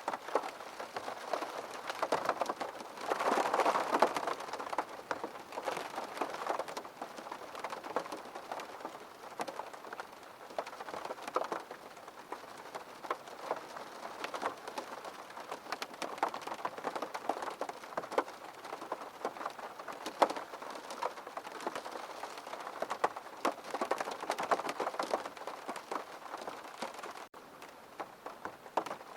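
Rain falling on a window pane: a steady patter of many separate drops ticking against the glass, heavier for a moment about three seconds in.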